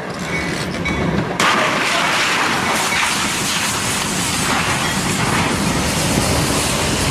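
A train passing close by: a loud, steady rushing rumble of wheels on rails that swells sharply about a second and a half in, then cuts off suddenly near the end.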